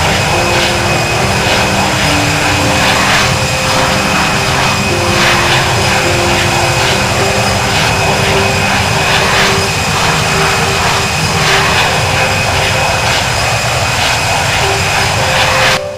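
Jet airliner engines running: a loud, steady rush of noise with a thin, high-pitched whine. It cuts off suddenly near the end.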